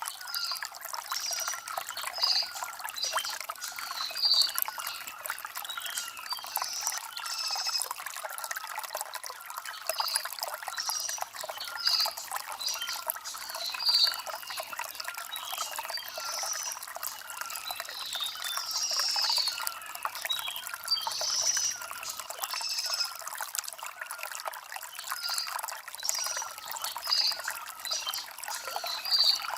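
Shallow stream water trickling and gurgling over stones, a steady flow with small gurgles recurring throughout.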